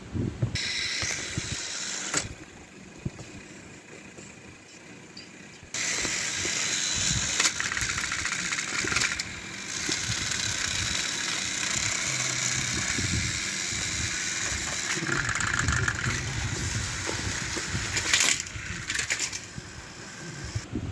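Battery-powered Thomas & Friends toy train engines running, a mechanical whirring with rattle. It starts about half a second in, drops off around two seconds, and comes back louder at about six seconds until just before the end.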